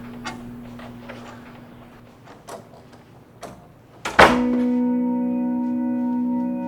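Scattered small clicks and knocks over a faint low hum, then a loud thump about four seconds in, followed at once by a sustained organ chord held steady.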